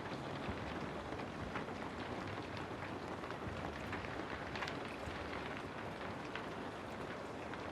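Steady rain: an even hiss of rainfall with scattered sharper drop ticks.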